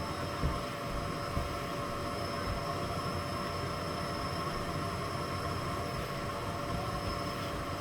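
Miele Blizzard CX1 bagless cylinder vacuum cleaner running steadily: a constant rushing hiss with a held whine. There are two soft knocks in the first second and a half.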